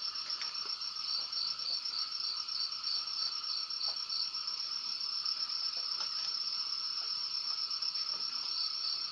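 Crickets chirping in a steady, evenly pulsing trill, a night-time ambience.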